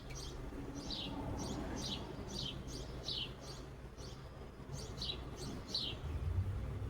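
Small bird calling: a run of short, high chirps, each falling in pitch, about two a second with a pause around the middle. A steady low rumble sits underneath and gets louder near the end.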